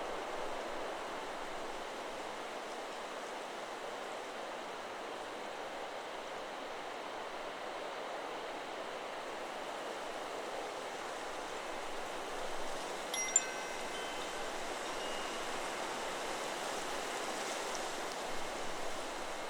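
Steady wind in the trees, with the Chakra Chimes 'Solar Plexus' wind chime quiet for most of it, then struck by a gust about two-thirds of the way in and ringing several notes at once. A few faint chime notes sound again near the end.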